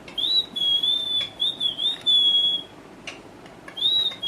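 Pet parrot whistling: a clear, high whistle that rises and then holds, broken into a few notes over about two and a half seconds, followed after a short pause by another rising whistle near the end.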